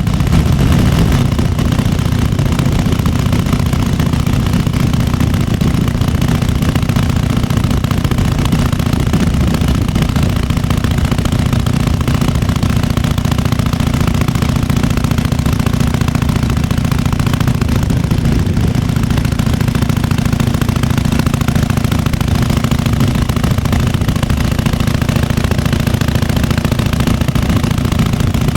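1998 Harley-Davidson Fat Boy's Evolution 45-degree V-twin idling steadily with the uneven potato-potato beat.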